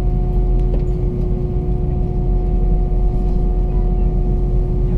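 Airbus A319 cabin noise: a steady low rumble with a constant engine hum carrying two steady tones, not rising in pitch. The engines are at a low, even setting just before takeoff.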